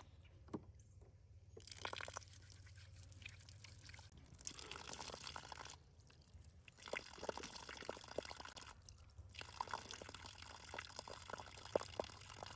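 Raindrops pattering and dripping on a tent, a faint haze of rain with many small separate drop ticks, broken twice by short quiet gaps.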